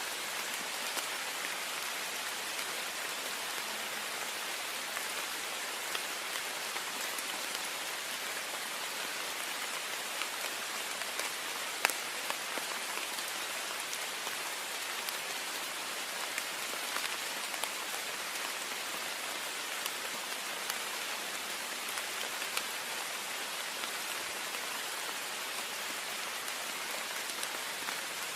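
Heavy rain beating steadily on a window pane: a dense, even hiss with many small drop ticks, and one sharper tap about twelve seconds in.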